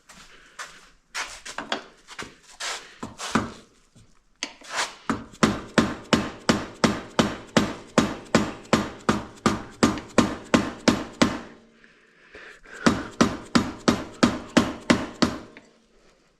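Hammer blows on a seized bolt on the quad's rear end, trying to drive it out: a few lighter strikes, then a steady run of hard blows about two to three a second with a metallic ring, a short pause, and another run. The bolt is stuck fast and damaged, 'already cooked'.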